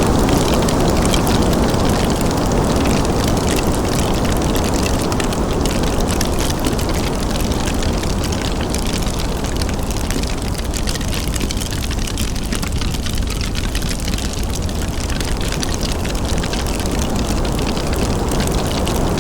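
Wood fire in a fireplace crackling with many small pops and ticks over a steady low rushing noise.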